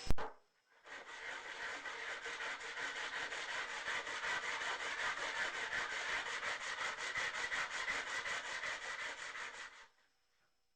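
A VAZ-2102 connecting rod is rubbed back and forth on sandpaper laid flat on glass, making quick, even scraping strokes that start about a second in and stop shortly before the end, with a single knock at the very start. The rubbing is a flatness check: the shiny spots it leaves show where the rod face makes contact.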